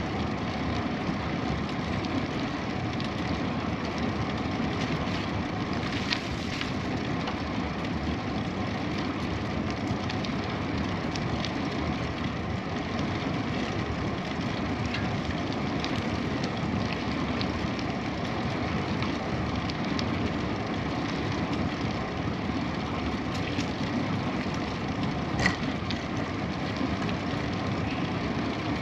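Steady rolling noise of a moving bicycle: wind on the microphone and tyres on the road, with a few light ticks and one sharp click about 25 seconds in.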